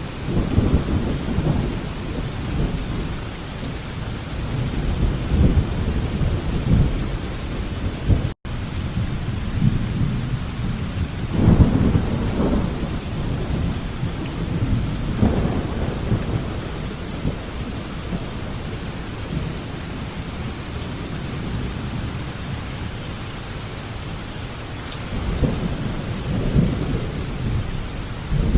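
Steady rain with thunder rumbling low several times, the strongest peals about a third and halfway through and again near the end. The sound cuts out for an instant about a third of the way in.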